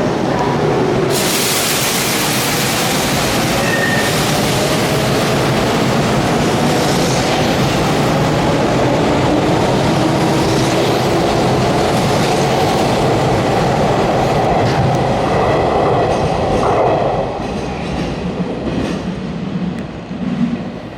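Electric commuter train pulling through the platform close by, its wheels clattering and hissing on the rails and its traction motor whine slowly rising in pitch as it gathers speed. The noise thins and drops away near the end.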